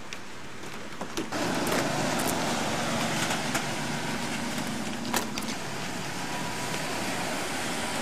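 Car interior noise of a moving vehicle: a steady rush of road and engine noise that grows louder about a second in, with a few light clicks.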